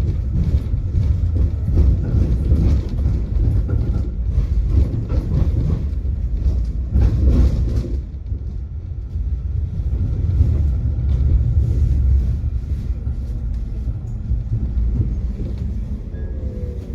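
Tram running along its track: a steady low rumble of wheels on rails with scattered clacks, a louder rattling stretch about seven seconds in, and a falling whine near the end.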